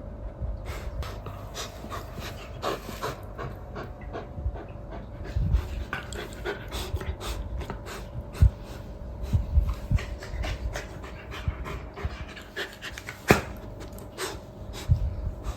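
Golden retriever panting, with scattered sharp clicks and knocks throughout and a faint steady hum.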